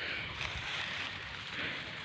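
Strong wind buffeting the microphone: an uneven low rumble with a steady hiss above it.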